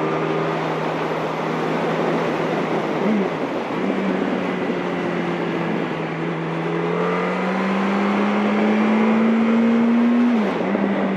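Yamaha R1's inline-four engine under way, its note climbing slowly as the bike gathers speed, with a gear change about three seconds in and another near the end, over wind rushing past the rider's microphone.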